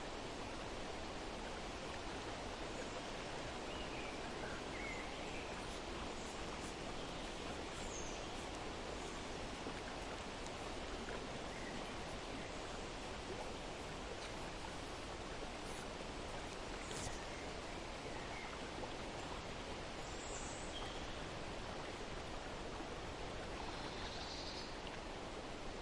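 Steady rushing of a stream, with faint bird chirps here and there.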